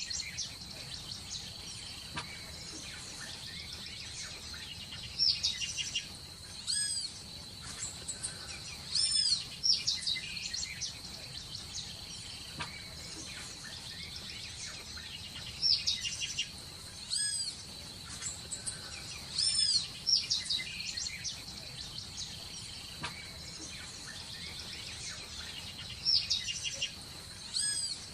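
Birds chirping in clusters of short, high calls that rise and fall, returning every few seconds, over a steady high insect drone.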